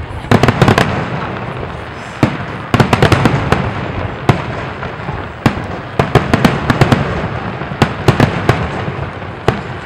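Aerial firework shells bursting, about twenty loud bangs in quick clusters, each trailing off in a rolling rumble and crackle.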